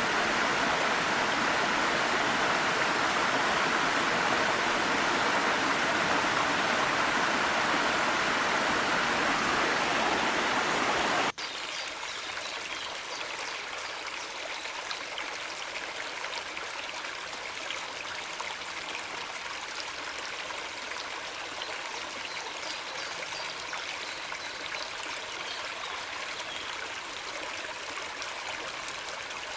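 Small mountain waterfall rushing steadily, then about eleven seconds in it cuts off abruptly to a quieter, higher trickling and gurgling stream.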